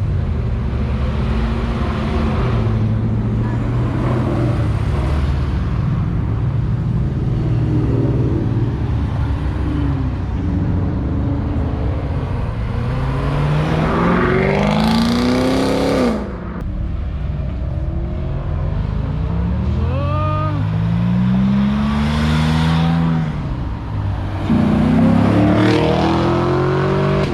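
Car engines rumbling, then revving hard and accelerating away one after another. There is a rising pull near the middle that cuts off suddenly, and two more rising pulls near the end.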